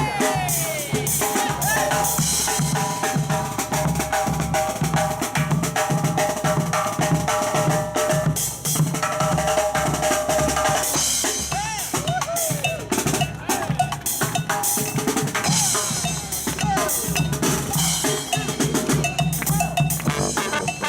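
Marching-band percussion playing a steady, driving drum groove of snare, bass drum and rim clicks as a brass band's number gets under way.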